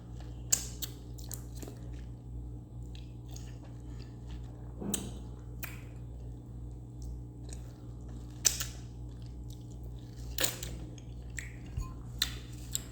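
Close-miked chewing of mango flesh off the seed: wet mouth clicks and sharp smacks at irregular moments, over a steady low hum.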